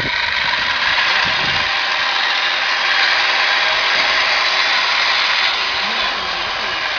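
Angle grinder running steadily as its disc cuts through a metal garage lock.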